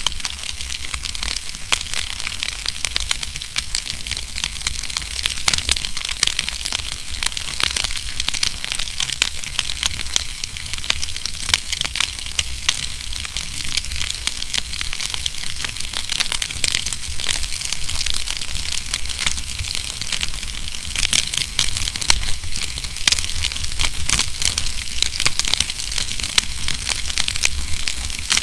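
Wood fire burning in a fireplace: a dense, irregular run of sharp crackles and pops over a steady hiss and a low rumble.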